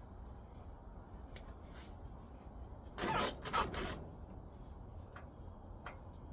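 Scraping and rubbing lasting about a second, around three seconds in, with a few light clicks, over a steady low rumble, as roofing boards are handled and shifted into place.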